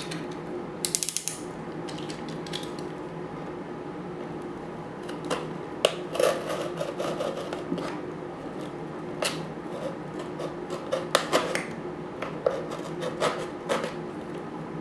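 A blade cutting through a cardboard milk carton to make the feeder's opening: irregular scraping and rasping with sharp clicks and snips, a quick run of clicks about a second in.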